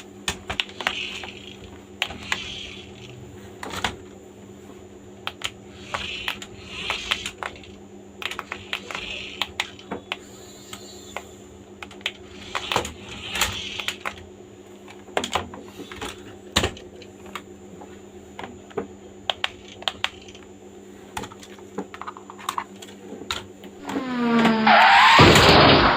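Irregular clicks and rattles of a plastic toy RC car being handled, over a steady low hum. Near the end a loud sound with a falling pitch lasts about two seconds.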